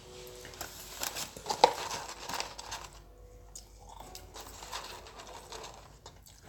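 Close-up mouth sounds of eating McDonald's fries: chewing with crunches and wet clicks, busiest and loudest in the first three seconds, with one sharp click about one and a half seconds in, then quieter, sparser chewing.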